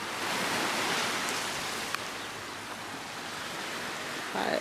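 Gentle surf washing on a beach, a steady hiss of water that eases off about halfway through.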